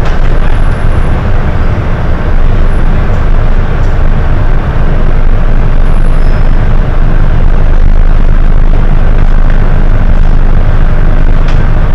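Hino HS8JRVL city bus's diesel engine and driveline running steadily under way, a loud, deep rumble heard from on board.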